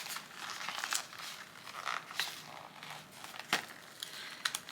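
Crinkling and rustling of plastic packaging and thin disposable gloves being handled, with a few sharp clicks, the loudest about three and a half seconds in.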